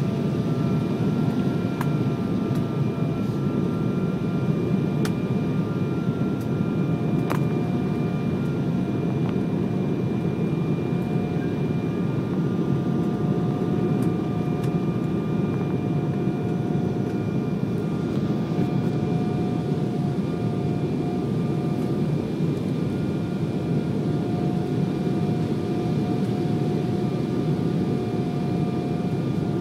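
Airliner cabin noise during the landing approach: a steady rush of engine and air noise with several steady whining tones over it, and a few faint clicks in the first few seconds.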